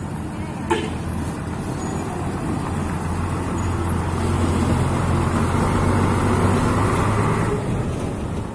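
Mitsubishi Fuso engkel truck's diesel engine and tyres running on the road, a low drone with road noise that grows louder over several seconds and eases off near the end. A single sharp click comes about a second in.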